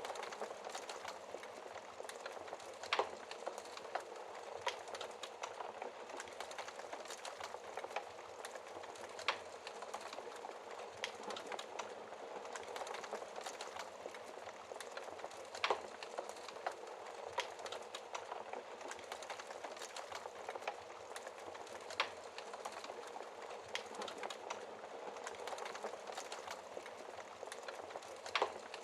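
Wood fire crackling in a fireplace: a steady hiss of burning with many small ticks and a louder sharp pop about every six seconds.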